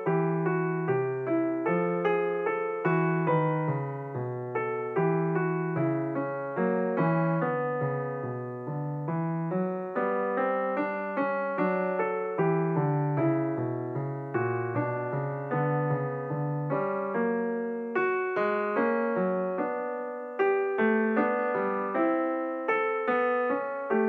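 Background piano music: notes struck one after another, each ringing and fading.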